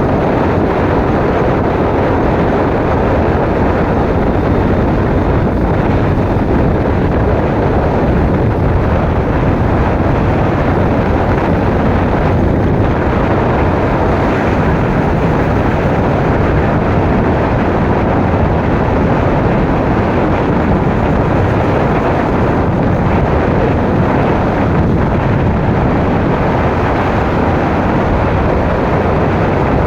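Motorcycle riding along at a steady pace: a loud, unbroken mix of engine and road noise with wind rushing over the microphone.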